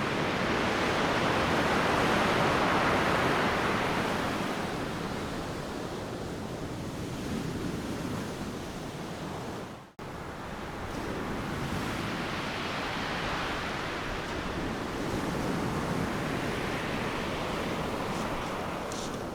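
Ocean surf on a beach. A wave breaks with a loud wash about two seconds in and slowly fades. The sound drops out for an instant about halfway through, then another wave builds and breaks.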